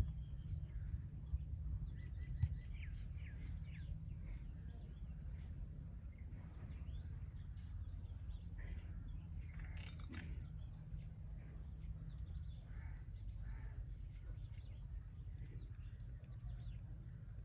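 Small birds chirping: many short, quick calls scattered throughout, over a steady low rumble.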